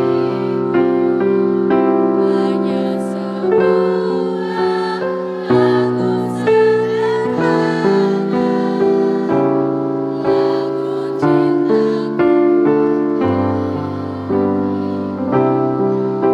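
Piano-sound keyboard playing a slow accompaniment in struck chords, about one a second, each fading out. A choir sings along faintly for a few seconds in the middle.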